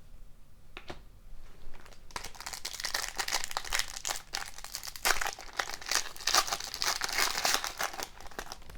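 Hockey card pack wrapper being torn open and crinkled by hand, starting with a few light handling clicks and then a dense crinkling that runs for several seconds.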